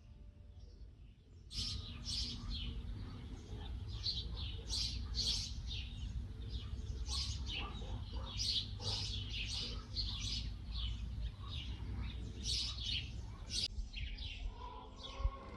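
Small songbirds chirping and singing in a dense run of quick, short high notes. The chirps start suddenly about a second and a half in and thin out near the end, as soft piano notes come back.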